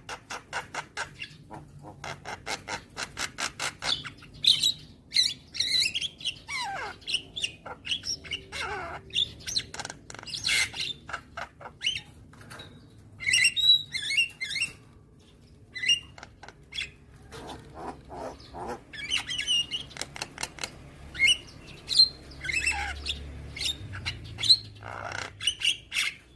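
Javan myna (jalak kebo) singing a varied song: a fast run of clicking notes, then chattering phrases, harsh squawks and falling whistles, with short pauses between them.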